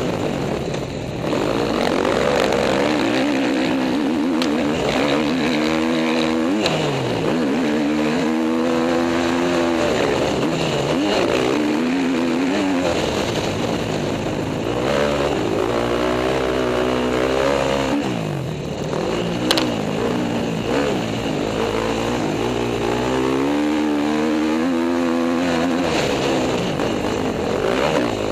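KTM motocross bike engine being ridden hard, its pitch climbing under throttle and dropping off again over and over as the rider works through the track.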